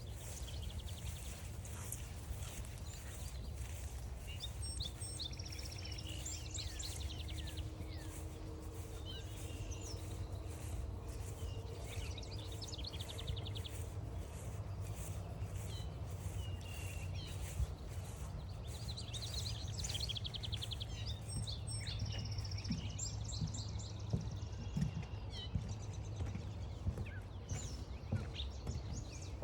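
Several songbirds singing and calling over one another, including fast buzzy trills and short chirps, over evenly paced walking footsteps at about one and a half a second and a steady low rumble.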